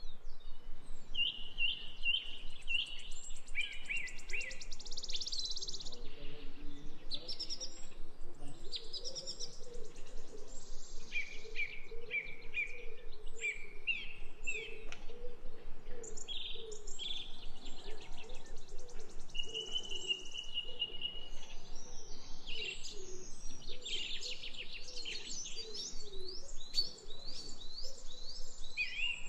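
Several birds chirping and calling without a break, many quick overlapping high notes and trills, with a lower run of repeated notes underneath.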